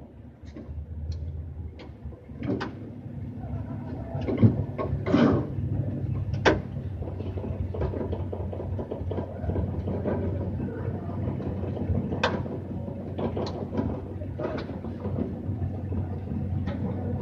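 Car engine idling with a low steady hum, heard from inside the cockpit, broken by scattered knocks and clicks.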